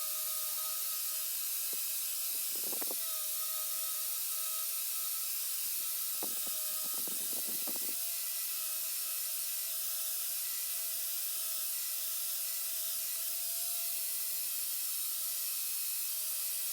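A steady hiss with a steady whine underneath, broken by a few brief knocks about three seconds in and again around six to eight seconds in.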